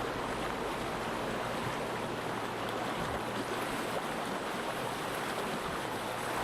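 River water rushing steadily over stones, a continuous even noise.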